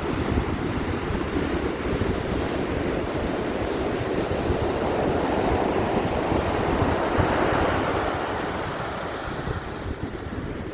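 Ocean surf: a wave surges in, building to its loudest about seven or eight seconds in and then easing off, with wind buffeting the microphone.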